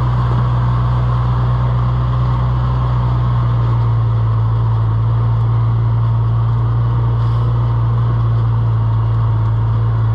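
A motor running steadily, giving a loud, even low hum.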